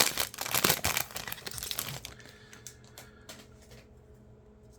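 Foil wrapper of a trading card pack crinkling and tearing as it is ripped open. It is loud for about two seconds, then drops to a few soft rustles and clicks.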